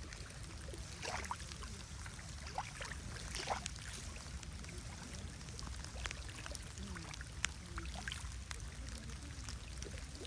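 Lake water lapping and splashing, with many irregular small drips and splashes over a steady low rumble.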